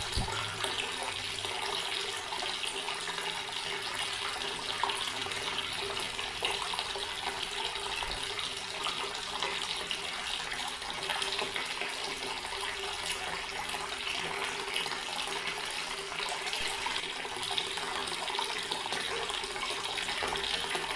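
Water running steadily from a garden tap, a continuous even splashing stream. A brief low thump sounds at the very start.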